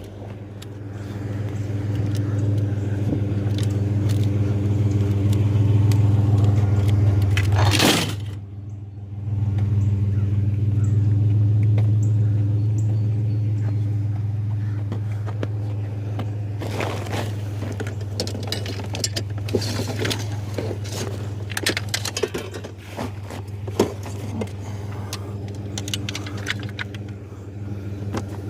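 Truck engine running steadily, with light metallic jangling and clicks over it; the engine sound drops away briefly about eight seconds in, then picks up again.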